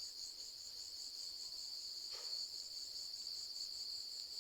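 Faint, steady high-pitched chirring of insects, with an even pulsing.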